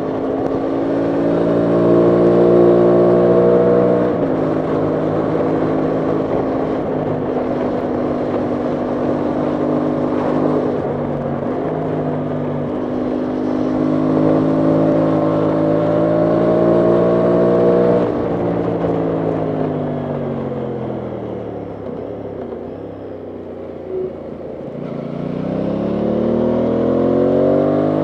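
Aprilia Tuono 660 Factory's parallel-twin engine pulling along at steady revs, with brief breaks in pitch at gear changes. Past the middle the revs wind down for several seconds as the bike slows, then climb again near the end as it accelerates.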